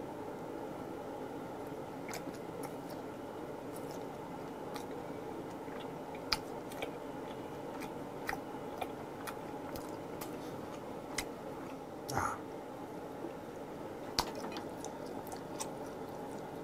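A man chewing grilled freshwater eel close to the microphone, with scattered wet mouth clicks and smacks over a steady background hum.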